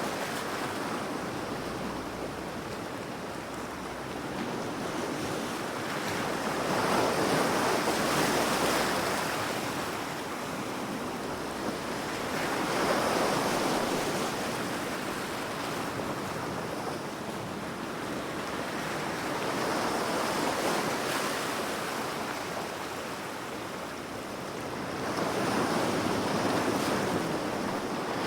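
Ocean waves breaking and washing onto the shore, a steady rush that swells and falls back about every six seconds.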